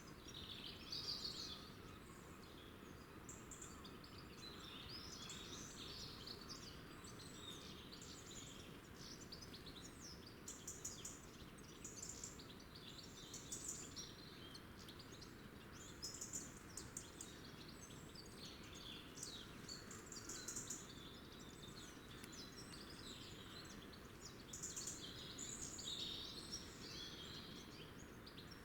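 Small songbirds chirping and twittering, many short high calls overlapping one another throughout, over a faint steady background hiss.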